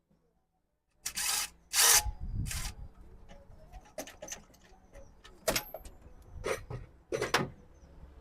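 A second of near silence, then hand tools clattering and knocking on metal engine parts, with a cluster of louder rasping scrapes about two seconds in and a few sharp knocks after, as bolts are worked loose on the timing cover of a BMW N13 engine.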